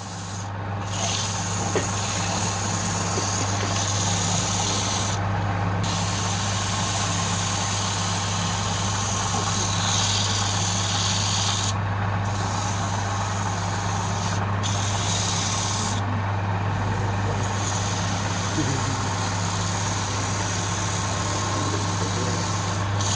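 Wood lathe running with a steady hum while a turning tool cuts the spinning wood: a continuous hissing scrape that breaks off briefly a few times.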